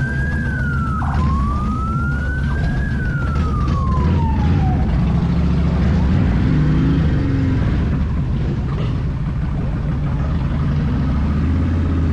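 A siren wailing slowly up and down, about two rises and falls, dying away about five seconds in, over a steady low rumble of vehicle engines.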